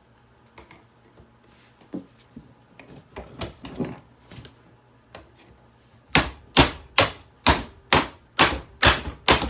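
A few faint handling knocks on a Hoover vacuum cleaner, then, from about six seconds in, a steady run of loud, short tool strokes on it, about two a second.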